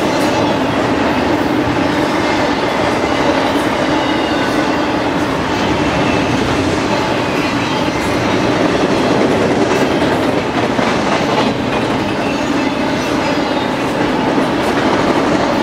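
Double-stack intermodal container cars of a BNSF freight train rolling past close by: a steady loud rumble of steel wheels on the rails, with an occasional knock from the wheels.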